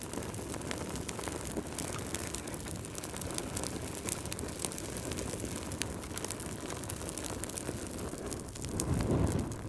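Crackling wood fire: a steady low rumble of flames with frequent sharp snaps and pops, swelling louder near the end.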